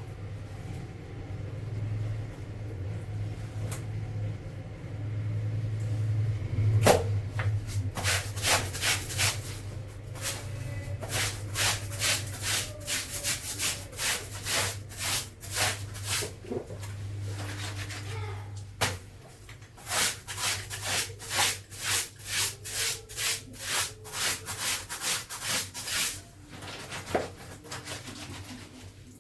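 Clothes being scrubbed by hand: runs of rhythmic rubbing strokes at about two a second, with a pause between them and a sharp click early on. A steady low hum underneath stops about two-thirds of the way through.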